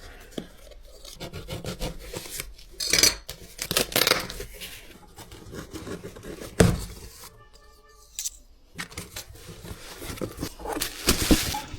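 A cardboard delivery box being opened and unpacked by hand: tearing, scraping and rubbing of tape and cardboard, with a few sharp knocks as the contents are handled.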